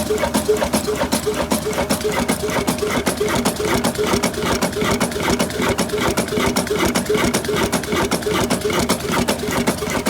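Old diesel engine running steadily, with an even beat of about four to five knocks a second.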